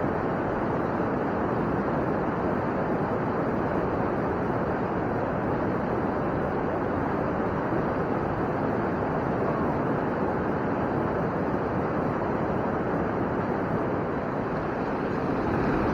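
Steady rush of stream water pouring down a rocky cascade.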